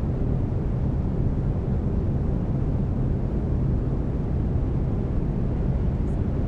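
Steady brown noise: an even, deep hiss weighted to the low end, with a faint steady low tone beneath it from the binaural beats.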